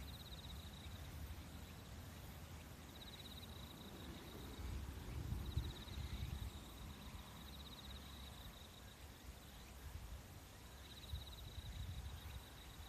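Nature ambience: an insect trilling high and fast in repeated bursts of about a second, over a low steady rumble.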